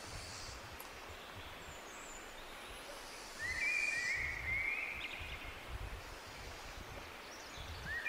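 Birds calling: a quick run of short overlapping whistles, each rising then held, about three and a half seconds in, over a steady outdoor hiss and a low, uneven rumble.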